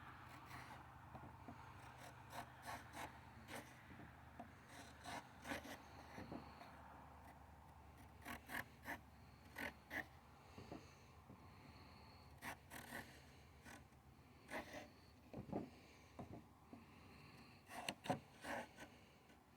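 Faint, irregular scratching and tapping: short sharp strokes and clicks, scattered and sometimes in quick clusters, over a near-silent background.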